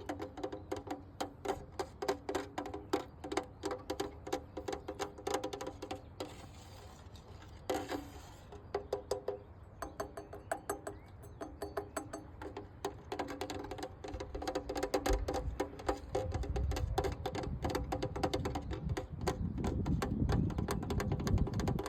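Rapid fingertip tapping on a hard, resonant object, several taps a second, each tap ringing with a pitch. In the last several seconds a louder low rumbling scratch joins the tapping.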